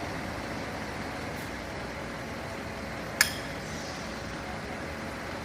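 Steady background rumble of vehicles, with one sharp metallic clink a little past three seconds in.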